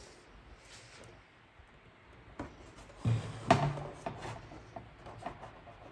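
Scattered light knocks and clicks from tools and plastic parts being handled and set down, with a louder cluster of knocks about three seconds in.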